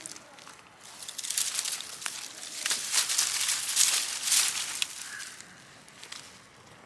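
A freshly lit fire crackling and hissing as it catches in newspaper and dry brush. It swells about a second in and dies back down near the end.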